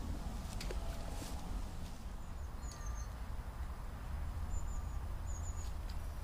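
Steady low rumble of wind on the microphone by a lake, with a small bird's short high chirps heard three times in the second half.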